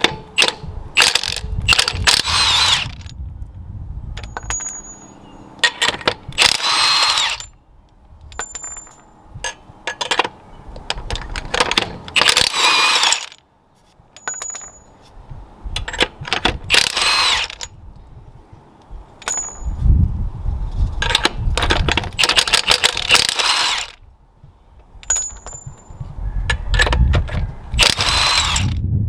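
Impact wrench run in a series of short bursts about a second long, each with a rising whine, spinning off wheel lug nuts, with metallic clinks of nuts and tools between the bursts.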